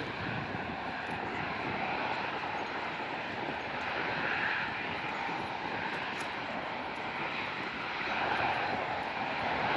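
Airbus A380 jet engines running: a steady, broad rushing roar that swells and eases slightly.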